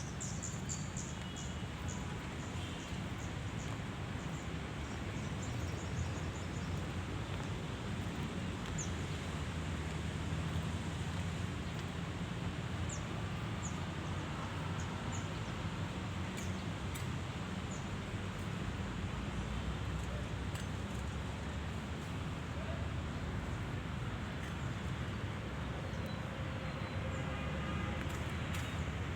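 Steady outdoor background noise with a low rumble, and short high chirps scattered through it, most of them in the first few seconds.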